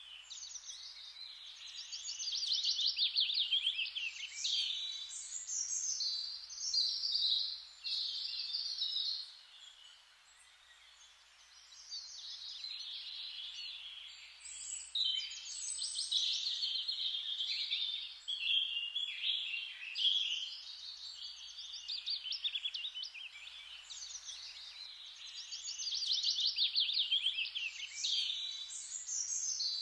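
Songbirds singing in repeated phrases of fast trills and chirps, with a short lull about a third of the way in.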